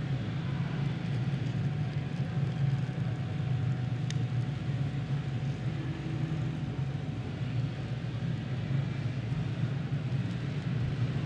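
Dirt racing karts' small Honda four-stroke engines running steadily at low speed as the field rolls around before the start.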